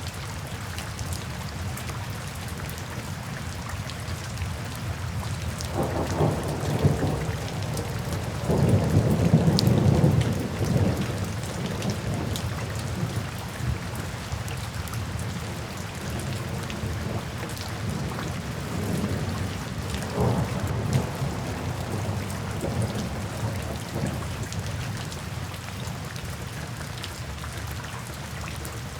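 Steady rain falling with thunder: a low rumble swells about a fifth of the way in, peaks and fades over several seconds, and a weaker roll of thunder follows about two-thirds of the way through.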